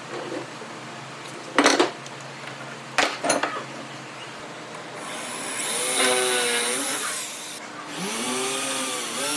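Two sharp knocks, then a handheld power tool motor runs in two spells of about two seconds each, its pitch dipping and rising as it runs.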